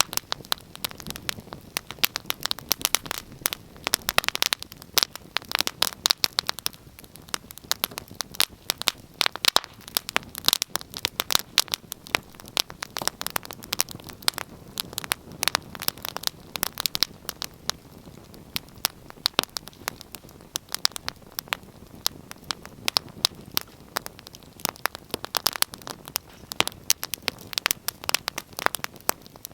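Wood fire burning in a fireplace, crackling and popping in dense irregular snaps over a soft steady hiss.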